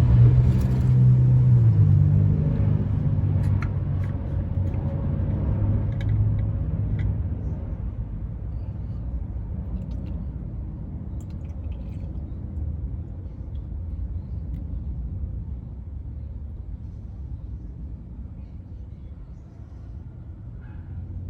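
A motor vehicle engine running with a low hum that steps down in pitch about two seconds in and fades over the next several seconds, leaving a low rumble.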